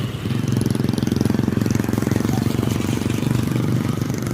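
A motorcycle engine idling steadily, with a fast, even firing pulse.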